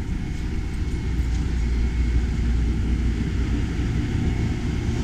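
Steady low rumble of the Amtrak California Zephyr train at the station, with a faint steady whine above it.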